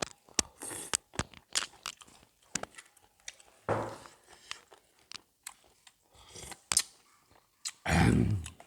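A person chewing and crunching a mouthful of seafood papaya salad close to the microphone, with many small sharp clicks and crackles. There are two louder, fuller noisy bursts, one about four seconds in and one near the end.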